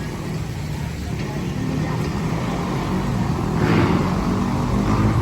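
Motor vehicle rumble that grows gradually louder, with a rushing swell about three and a half seconds in.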